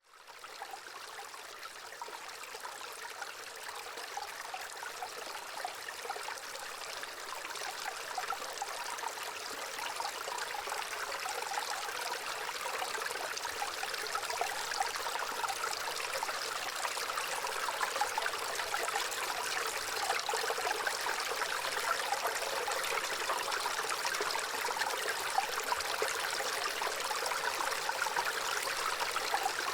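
Gently running water, a soft continuous trickling flow. It fades in at the start and grows a little louder over the first fifteen seconds or so.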